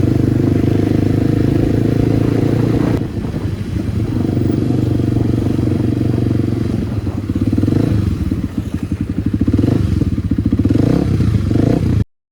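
Kawasaki D-Tracker 250's single-cylinder engine, fitted with a White Brothers exhaust, running while ridden. It holds a steady note, eases off about three seconds in, then rises and falls in pitch several times with throttle and gear changes before cutting off suddenly near the end.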